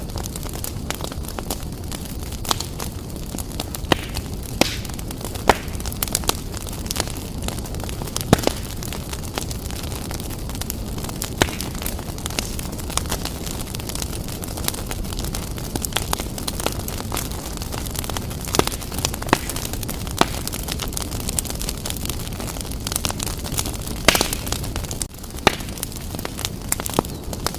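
Fire burning briskly in a fireplace: a steady low rumble with frequent irregular crackles and pops, and one louder pop near the end.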